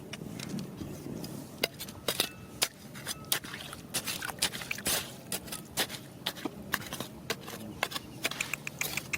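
Rocks and gravel knocking and clacking together in irregular sharp clicks, several a second, over a low steady rush of river water.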